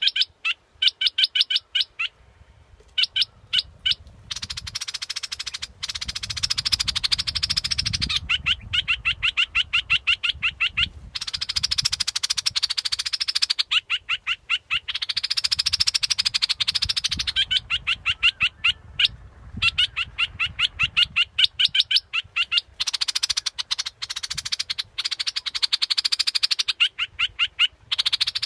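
Bulbul song (the Thai 'dok taeng' bird) of the kind used as a lure call: runs of rapid, evenly repeated sharp chattering notes, broken by a few brief pauses.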